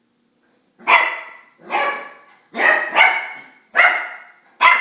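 Shiba Inu puppies barking: about six sharp barks, roughly one a second, starting about a second in.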